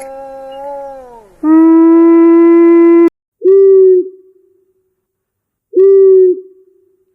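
A long animal howl that slides down in pitch and fades, then a louder, steady, held howl that cuts off suddenly about three seconds in. This is followed by two short, low hoots about two seconds apart, each dipping slightly at the end.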